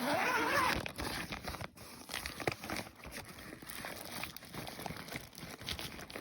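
Firework assortment packaging being torn open and handled: a loud rasping tear in the first second, then continued crinkling and rustling.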